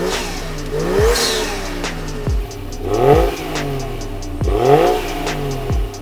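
Toyota Chaser JZX100's 1JZ-GTE turbocharged straight-six revved through a Kakimoto exhaust, three blips that each rise and drop back. A hip-hop beat with deep kick drums plays underneath.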